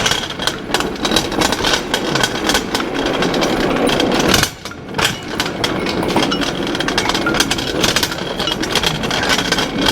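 Steel engine hoist (cherry picker) being wrestled and rolled across the shop floor: continuous metallic rattling and clattering, easing briefly about four and a half seconds in.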